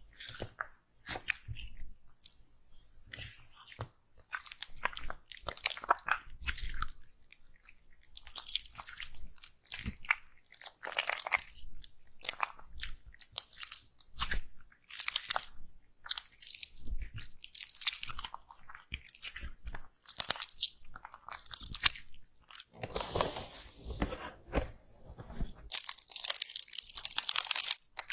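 Slime being squeezed and pressed close to the microphone, giving crunchy crackles in short, irregular bursts. Near the end the crackling turns denser and continuous.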